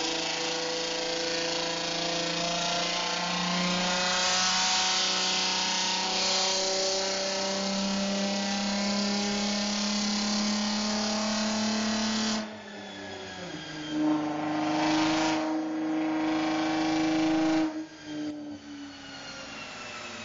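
Audi S4 B5's twin-turbo 2.7-litre V6, with a 3-inch straight-pipe exhaust, pulling at full throttle on a chassis dyno. Its pitch climbs slowly for about twelve seconds, then the sound drops suddenly and the revs fall away. A steadier tone holds for a few seconds before it falls off again near the end.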